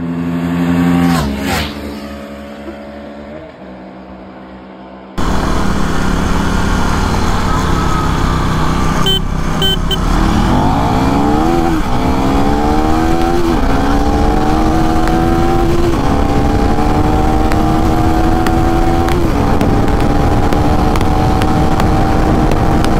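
Motorcycle engine accelerating at full throttle through the gears, its pitch climbing and then dropping back at each of about four upshifts, over a loud rushing noise. Before an abrupt cut about five seconds in, a steadier engine note with a brief falling sweep.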